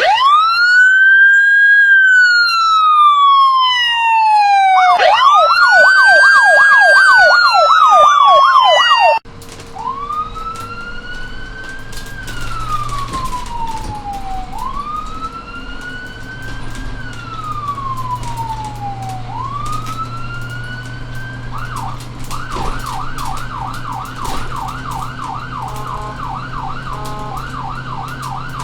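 Electronic emergency-vehicle siren sound effects. First a clean siren wails slowly up and down, joined about five seconds in by a rapid yelp. After an abrupt cut about nine seconds in, a recorded siren wails slowly over a steady vehicle engine hum, then switches to a fast yelp.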